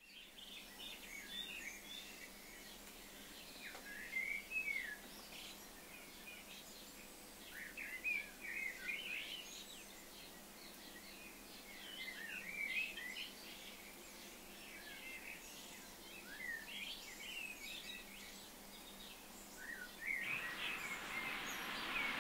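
Small birds chirping and twittering, faint, in scattered bursts with short gaps, over a low steady hiss of outdoor ambience; the background hiss grows fuller near the end.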